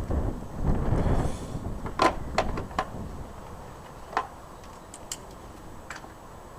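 A low rumble for about the first second and a half, then a handful of light, separate metal clinks and taps from hand tools and parts being handled while working on a motorcycle's front forks.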